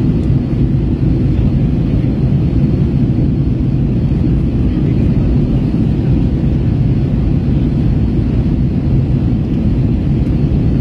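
Airbus A321 cabin noise in flight: a steady low rumble of the jet's engines and the airflow over the fuselage.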